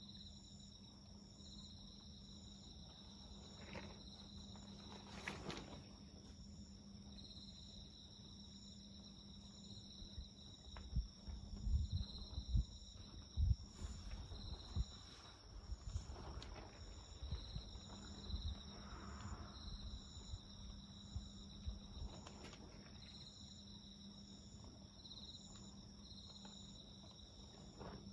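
Insects chirping in steady, evenly repeated pulses over a wood campfire. The fire crackles and pops, with a run of louder pops in the middle.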